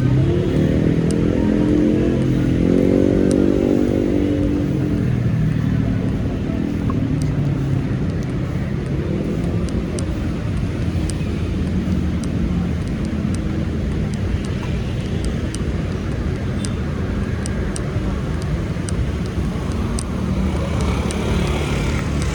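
Street traffic: motor vehicles running past, one engine rising in pitch as it accelerates over the first few seconds, over a steady low rumble, with scattered light ticks.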